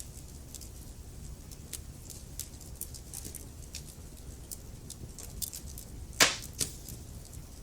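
Wood fire crackling in a fireplace: scattered small crackles over a low steady rumble, with a loud pop a little after six seconds in and a smaller one just after.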